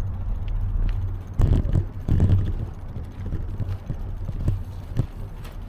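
Wind rumbling on the microphone of a camera riding along on a bicycle, with scattered light knocks and a louder gusty stretch between about one and a half and two and a half seconds in.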